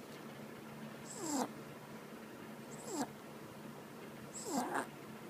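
Dog snoring in its sleep: three snores about a second and a half apart, each a breathy rasp with a whistle that falls in pitch.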